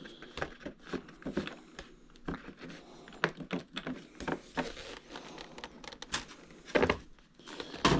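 Small irregular clicks, taps and rustles of hands working a screwdriver and plastic airplane parts while driving assembly screws, with one louder knock about seven seconds in.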